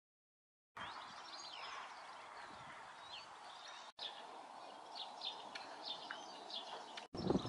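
Small birds chirping and singing over a faint steady outdoor background noise, starting abruptly after a moment of silence. The sound cuts out briefly twice, and a louder low rumble comes in at the very end.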